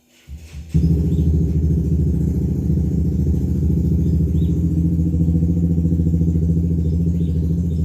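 A motor or small engine starting up, catching in two steps within the first second, then running with a steady low hum.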